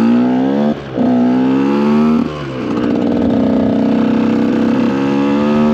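KTM EXC 125 two-stroke single-cylinder engine accelerating. The revs climb, drop sharply about a second in, climb again, drop just after two seconds in, then hold steady, as it shifts up through the gears and settles into cruising.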